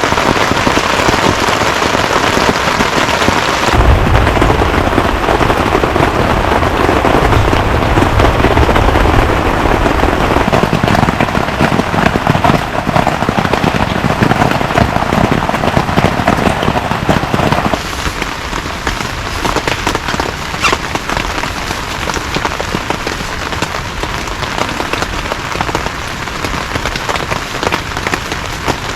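Heavy rain falling, a loud dense patter. About four seconds in it changes abruptly and a low rumble joins it; a little past halfway it turns suddenly quieter and thinner.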